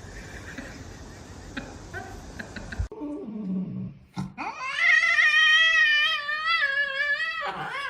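A cat yowling: one long, loud, wavering call lasting about three seconds, starting about five seconds in, after a short low sound.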